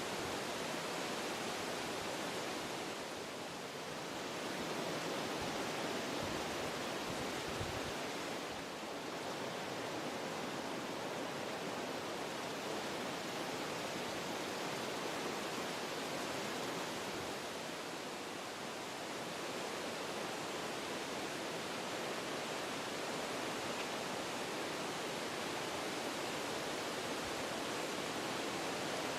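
Wind blowing through forest trees: a steady rushing sound that eases briefly a few times and then picks up again.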